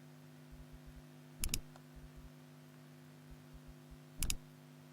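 Computer mouse clicks: two sharp double-clicks, about a second and a half in and near the end, over a faint steady hum.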